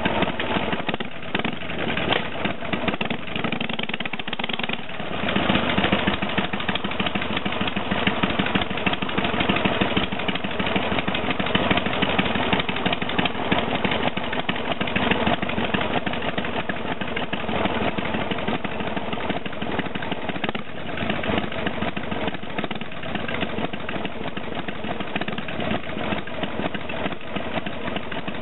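2000 Harley-Davidson Sportster 883 Hugger's air-cooled V-twin running through tapered mufflers, a steady exhaust note. It gets louder about five seconds in and drops back about twenty-one seconds in.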